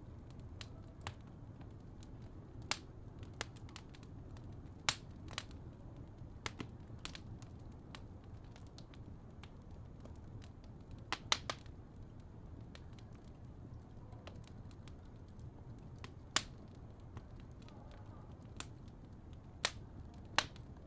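Fireplace crackling: a low steady rumble with sharp pops at irregular intervals, a few in quick pairs.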